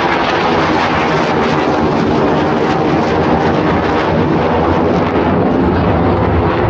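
Loud, steady jet roar from the Blue Angels' four-plane diamond of F/A-18 Super Hornets flying overhead.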